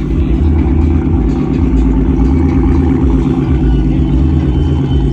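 A car engine running close by: a loud, steady low note that holds without words over it.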